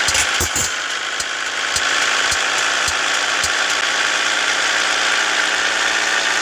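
Scania S 450 truck engine running steadily. A regular ticking, a little under twice a second, runs through the first half and then stops.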